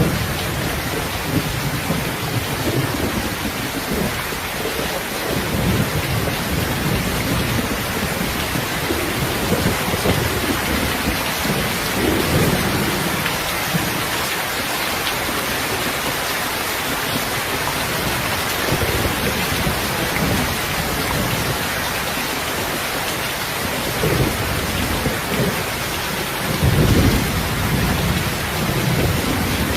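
Steady rain with low rolls of distant thunder swelling and fading several times; the loudest roll comes near the end.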